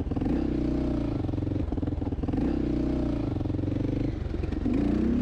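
Honda XR600R's single-cylinder four-stroke engine running under way, its revs holding steady with two brief dips, then climbing near the end as the throttle opens.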